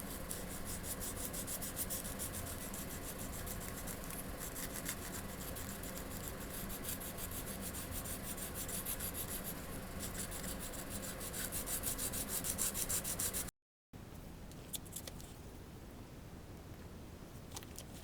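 Marble machine and cat automaton mechanism running, giving a rapid, even ticking and rasping. After an abrupt cut a little past halfway it is quieter, with a few separate clicks.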